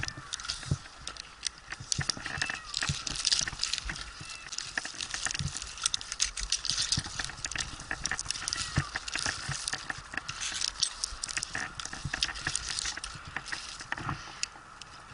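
Irregular knocks, clicks and scraping of a climb up a pine trunk on rope loops: rope and climbing gear rubbing and tapping against the bark, continuing throughout.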